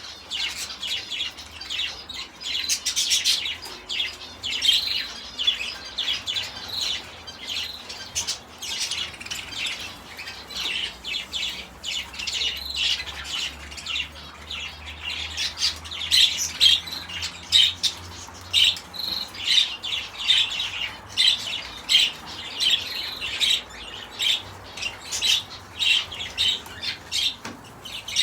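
Many small cage birds chirping and calling at once, a dense stream of short, overlapping high chirps.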